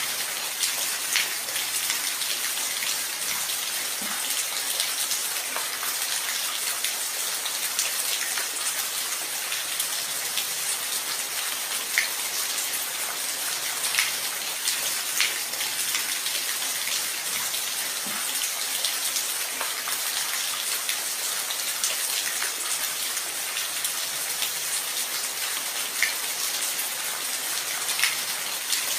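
Steady rain falling, an even hiss with scattered sharper drips and patters standing out every second or two.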